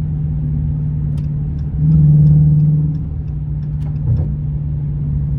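Car engine droning steadily while driving, heard from inside the cabin, swelling louder and slightly higher for about a second on a brief burst of throttle about two seconds in, then settling back.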